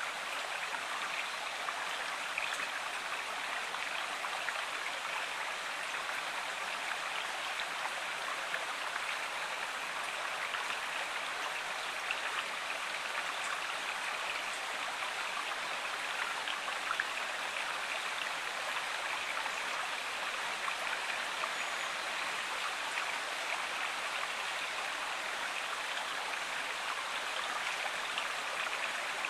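Stream water running steadily, an even rushing splash with small droplet ticks through it.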